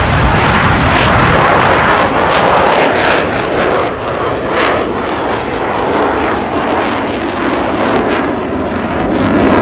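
Loud aircraft engine noise from a fixed-wing plane, fairly steady, with a brief dip about four seconds in.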